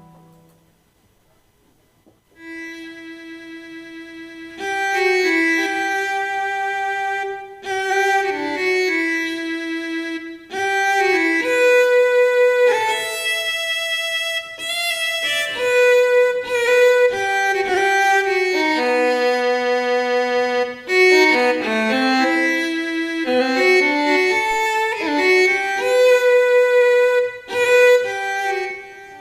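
Roland GW-8 arranger keyboard playing a melody on its violin tone, one line of held notes. The melody starts about two seconds in, after a short silence.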